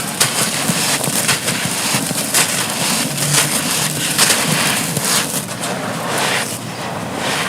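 Dry, dusty, brittle block being crumbled and crushed: a continuous gritty crunching made of many small crackles and crumbles.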